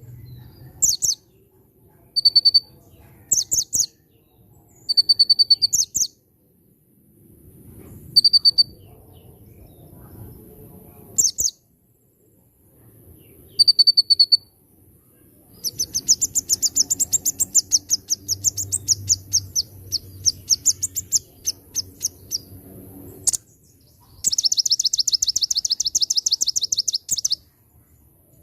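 A konin songbird singing in full voice: short bursts of rapid high chirps, one every second or two, then a long, pulsing chattering trill, and a fast buzzy trill near the end.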